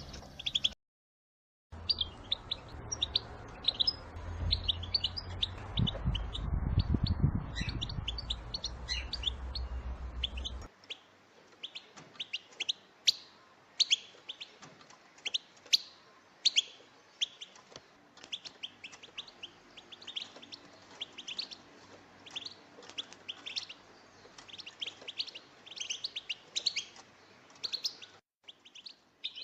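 A flock of European goldfinches, billed as females, giving rapid short chirping calls over one another without pause. The playback breaks off into silence for about a second near the start and briefly again near the end, and there is a low rumble under the calls for the first several seconds.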